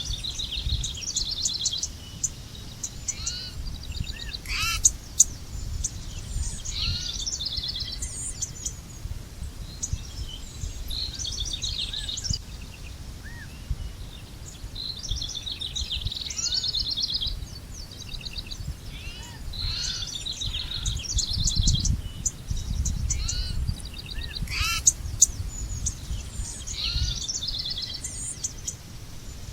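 Several songbirds singing, with overlapping phrases of quick repeated trilled notes and short chirps, over a steady low rumble. Two sharp clicks stand out, about a fifth of the way in and again near the end.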